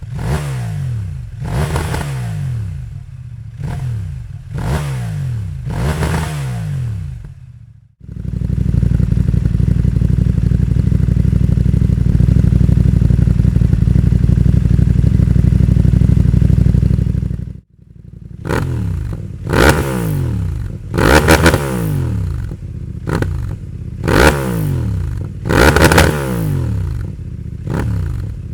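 CFMoto 800MT-X parallel-twin engine revved in repeated throttle blips through a Dominator S6 slip-on exhaust, each rev rising and falling back to idle. About eight seconds in it is held at a steady high rpm for roughly ten seconds and then cuts off, before a fresh series of sharper, louder blips.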